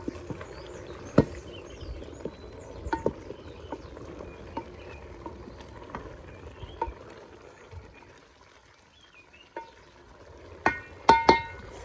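Metal cooking pot and utensils clinking and knocking at irregular intervals, with a quick run of ringing clinks near the end.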